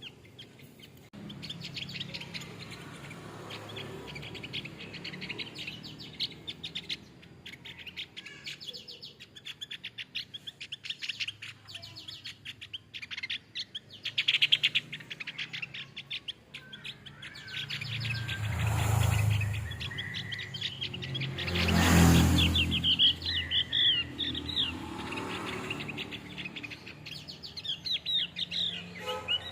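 Male Javan grey-throated white-eye singing: long runs of rapid, high chirping notes, turning into quick twisting whistled phrases later on. Partway through, a rushing noise swells up twice and briefly drowns the song.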